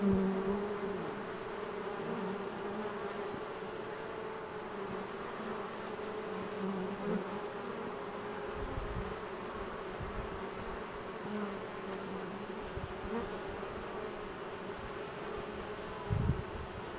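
Honey bee swarm buzzing steadily, the hum of many wings from bees settling into the hive box after being shaken in; the roar has died down quite a bit. A few short low bumps cut in, the loudest about a second before the end.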